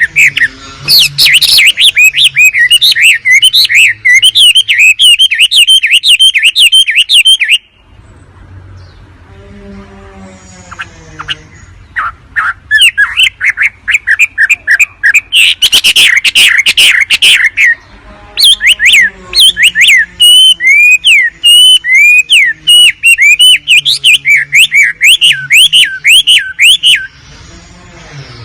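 Wambi bird song played as a loud recording: fast, repeated sharp chirps in long runs, broken by a quieter gap of a few seconds after the first run and again near the end.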